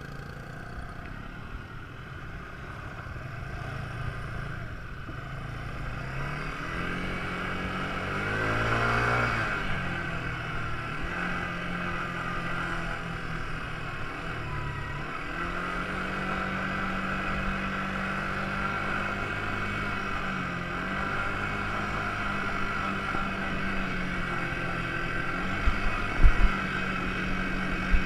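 Quad bike engine running while being ridden. It revs up to a peak about nine seconds in and settles back, drops off briefly about halfway through, then runs at a steady pitch. A few low thumps come near the end.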